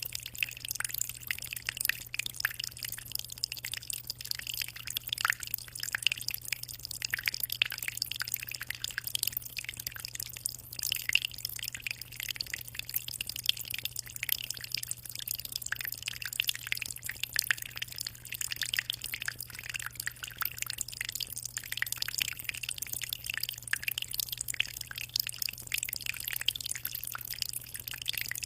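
Aquarium water trickling and splashing in a constant, dense patter of small drops, with a steady low hum underneath.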